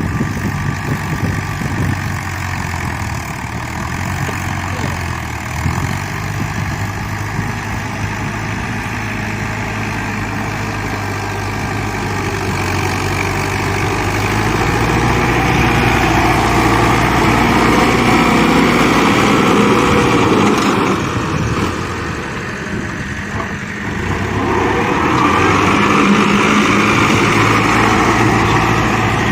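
Fiat 640 tractor's four-cylinder diesel engine running steadily while pulling an 11-tine cultivator. It grows louder about halfway through, drops briefly, then swells again near the end.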